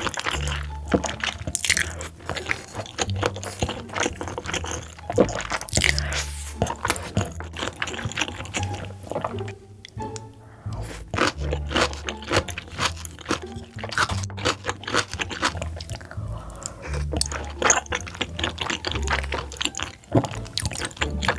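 Close-miked chewing and crunching as bok choy and braised pork belly are bitten and eaten, a dense run of wet crunches and clicks. Background music with a bass line of held low notes plays under it.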